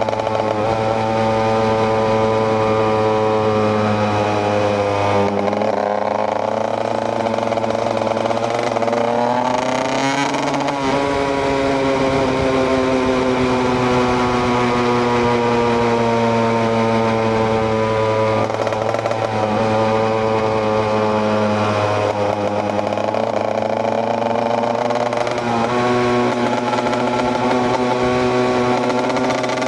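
KTM EXC 125's single-cylinder two-stroke engine under way, its pitch climbing with throttle and dropping sharply at gear changes about five and ten seconds in, then falling slowly as it rolls off before climbing again in the second half.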